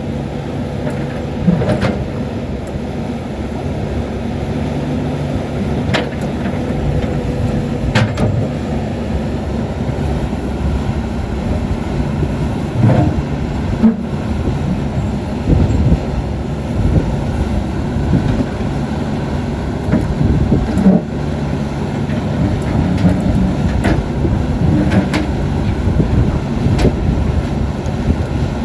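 Caterpillar 320D hydraulic excavator's diesel engine running steadily as the machine works, with several sharp knocks scattered through it.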